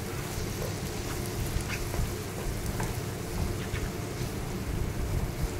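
Onion-tomato masala frying in oil in a non-stick pan, a steady sizzle, while a wooden spatula stirs it with a few light scraping ticks against the pan. This is the bhuna stage of roasting the spices.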